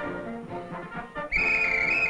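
Brass band music with trumpet and trombone. About a second and a half in, a loud high whistle-like tone joins in and holds steady to the end.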